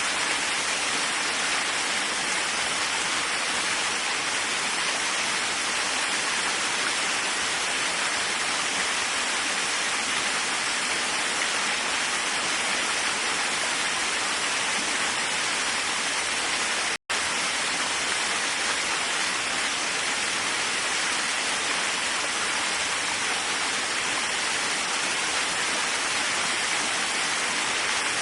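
Waterfall rushing in a steady, even hiss of falling water, broken once about two-thirds of the way through by a split-second gap of silence.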